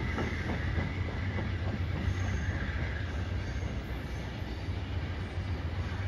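Amtrak passenger train rolling away past a grade crossing. Its wheels click over the rail joints in the first second, then the clicks fade into a steady low rumble as the train recedes.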